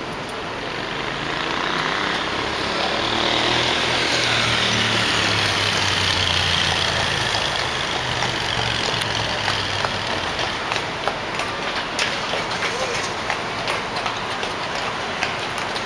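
A heavy vehicle's engine running on the street, growing louder over the first few seconds and then easing off. In the second half, a run of irregular sharp knocks.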